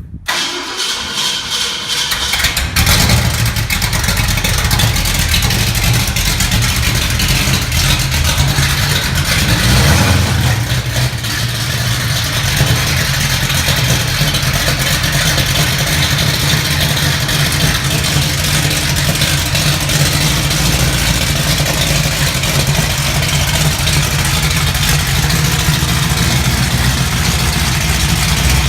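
Cammed 408 cubic-inch Ford FE V8 drag-race engine on a cold start: it catches and comes up to speed in the first few seconds, then idles steadily, with a short rev about ten seconds in.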